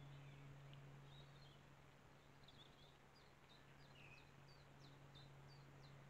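Faint high bird chirps, a quick run of short falling notes in the middle, over a steady low hum, as picked up by a trail camera's microphone.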